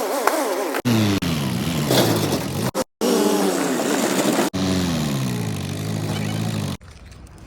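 Engine sounds cut together in short clips, each with its pitch falling as if revving down, separated by abrupt cuts; near the end they stop suddenly, leaving quieter background noise.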